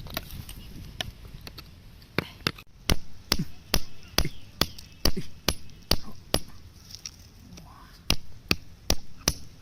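A hand tool striking rock while digging out crystals, in sharp, evenly paced blows. They start about two seconds in at two to three a second, pause briefly, then four more come near the end.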